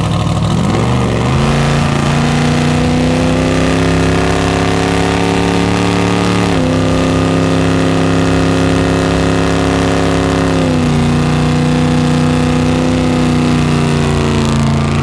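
Chevy II Nova muscle car's engine revved up and held at high revs through a burnout, the rear tyre spinning in smoke. The pitch climbs over the first second or so, holds steady, steps up slightly about halfway, and drops a little near the end.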